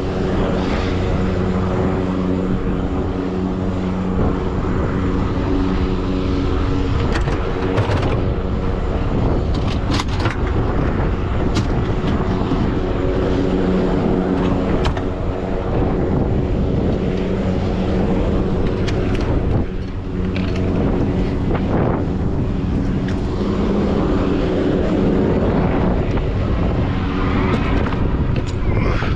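Heavy diesel tow truck's engine running steadily under way, with road and wind noise and a few light knocks and rattles.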